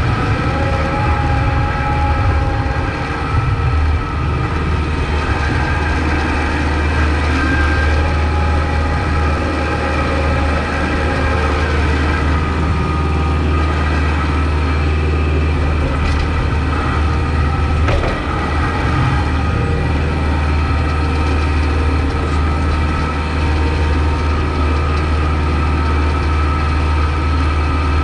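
Kubota MX5200 tractor's four-cylinder diesel engine running steadily while plowing snow, with a deep, even hum and a single brief knock about two-thirds of the way through.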